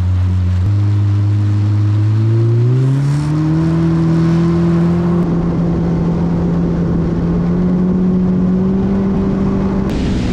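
Yamaha FX Cruiser HO WaveRunner's four-stroke engine being throttled up. Its pitch steps up about a second in, climbs again around three seconds in, then holds steady at speed under a rising wash of water noise. A short gust of spray or wind hiss comes near the end.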